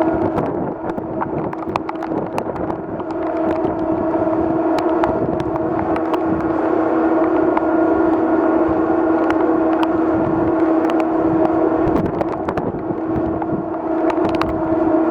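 Steady drone of the MV Salish Eagle ferry's machinery, a constant hum with a second, higher tone over a rushing noise, with scattered sharp ticks throughout.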